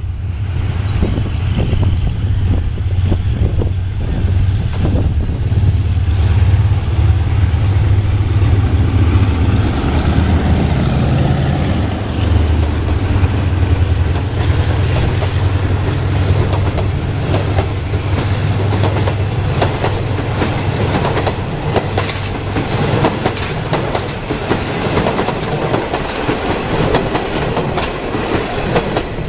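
Train running on the track, with a low steady rumble through the first half. Later the wheels click rapidly over rail joints and points.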